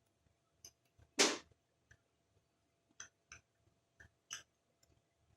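Scattered light clicks and taps of small carburetor parts and a screwdriver being handled on a workbench, with one louder, short noisy burst about a second in.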